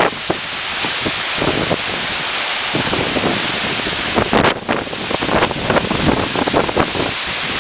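Strong gusty coastal wind buffeting the microphone in irregular rumbling blasts over a steady rushing hiss, with a brief lull about four and a half seconds in.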